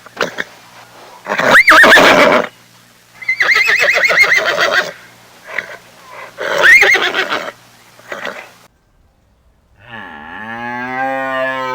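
A horse neighing three times, each whinny a loud quavering call, with softer snorting sounds between. After a short pause, a cow starts a long, low moo near the end.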